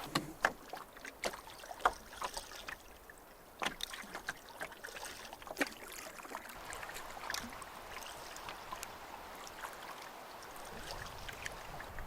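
A canoe on the water: several sharp knocks of paddle or gear against the hull in the first few seconds, then a soft, steady wash of water.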